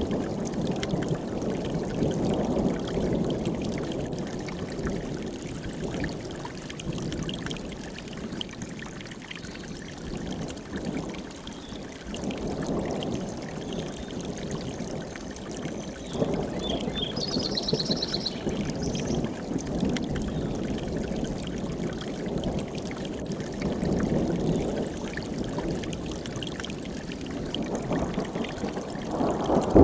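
Mountain stream rushing steadily, its level swelling and easing. A brief high bird call comes a little past the middle.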